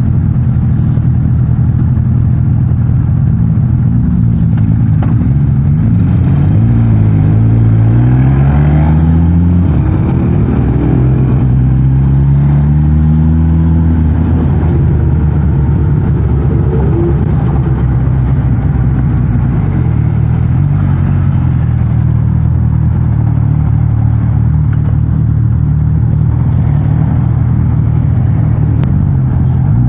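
Suzuki GSX-S 1000 GT's inline-four engine running through its stock exhaust, pulling up in rising pitch twice in the first half, then running steadily at lower revs.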